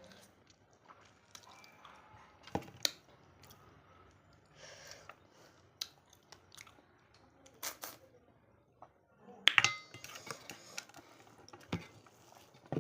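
Close-miked eating of mutton and rice: chewing and mouth noises with scattered sharp clicks and knocks. The loudest is a ringing clink about nine and a half seconds in.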